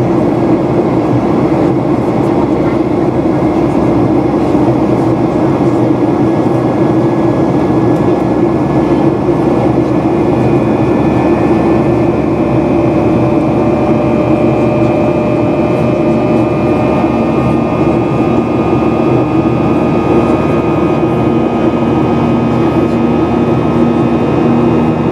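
Boeing 737-800 cabin noise: a steady engine and airflow rumble with a low hum. About ten seconds in, several faint whining engine tones come in and hold.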